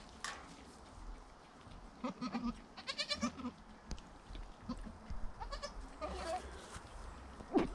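Goats bleating, several short calls, with a sharper loud sound just before the end.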